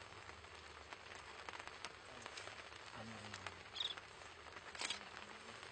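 African wild dogs feeding on a fresh carcass: a faint, steady patter of small wet clicks and crackles from tearing and chewing, with a brief high chirp about four seconds in and a sharper click just after.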